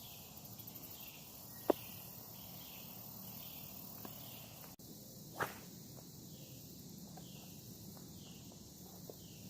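Crickets chirping: a faint repeated call about twice a second over a steady high-pitched buzz, with two sharp clicks, one about two seconds in and one about five and a half seconds in.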